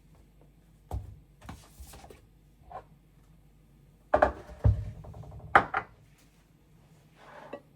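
Kitchenware being handled: a scattering of knocks and clinks, with the loudest cluster of clatter a little past halfway.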